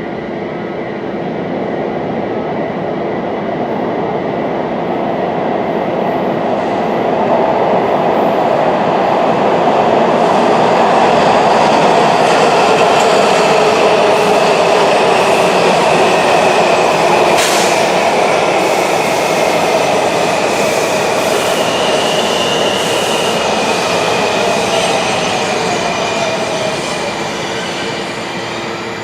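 Washington Metro subway train rolling on its rails, growing louder to a peak around the middle and then fading. Thin wheel squeals come in during the second half, with a single sharp click just past the middle.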